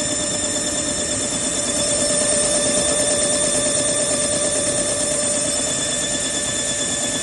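Drip irrigation pipe hole-drilling machine running steadily, a high whine of several held tones over rough mechanical noise.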